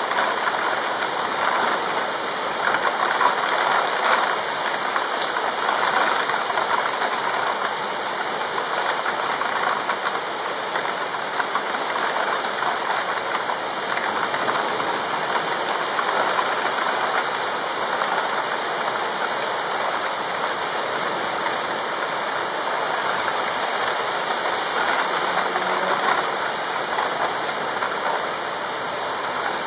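Heavy rain falling steadily, a dense even hiss of rainfall.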